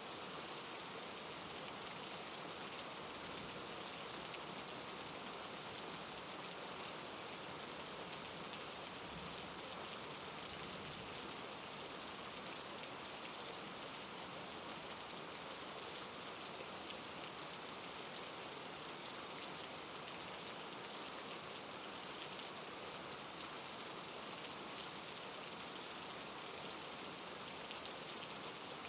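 Steady soft rain falling on a surface, an even hiss with fine scattered drop ticks.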